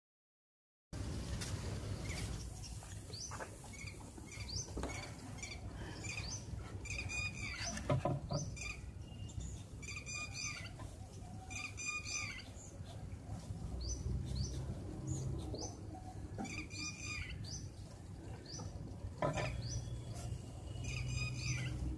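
Birds chirping, starting about a second in: many short high chirps, with a louder repeated call phrase every few seconds, over a low background rumble.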